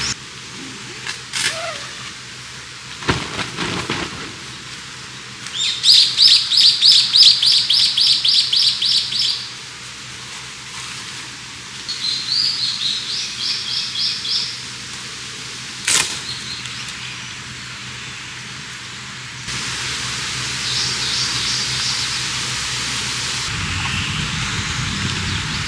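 A songbird singing rapid trills of high repeated notes, three phrases with the first the longest, over a steady rushing background. A few sharp clicks fall in between.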